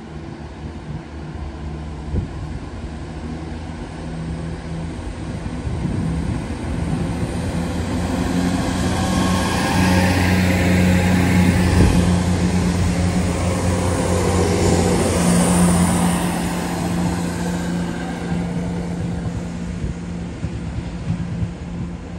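Diesel train moving past at the platform: a steady low engine hum under rail and running noise that grows to its loudest about halfway through, then fades away.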